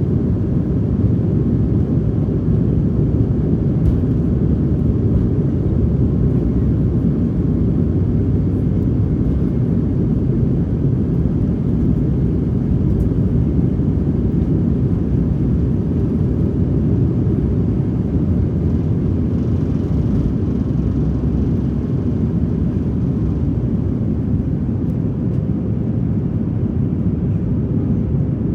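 Steady low rumble inside the passenger cabin of a Boeing 737 MAX airliner in flight: the drone of its engines and the airflow over the fuselage.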